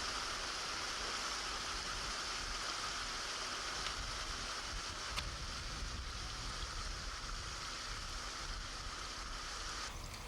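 Steady rush of river water flowing over a weir. It changes abruptly just before the end.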